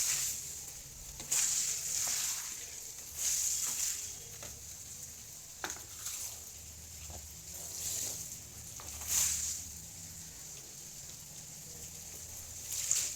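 Hailstorm: hail and rain pattering in waves of hiss that swell and fade every second or two, over a low steady hum.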